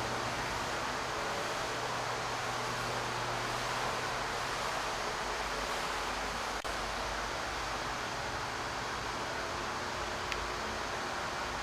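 Steady rushing noise at an even level, with a faint low hum early on and one short click about two-thirds of the way through.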